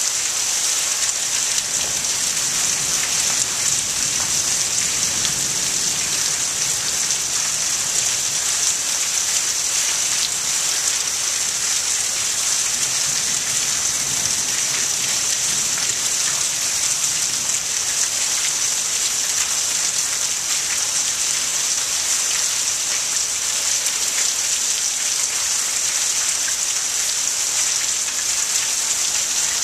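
Heavy monsoon rain pouring down steadily onto a flooded street, a dense, even hiss with no letup.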